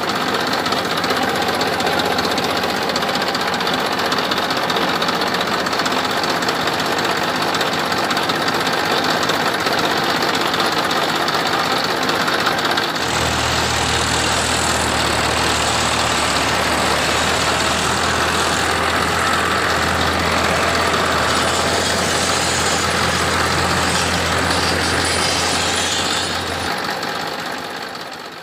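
Small motor running steadily with a rattling, knocking character. About halfway through a deeper steady hum joins in and drops away near the end, and then the sound fades out.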